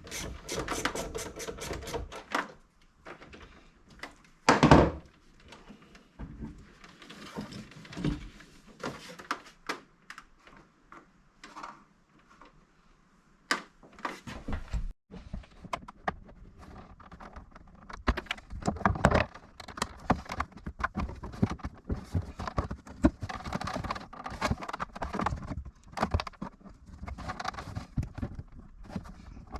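Clicks, clatter and knocks of tools and car parts being handled, with one loud thump nearly five seconds in.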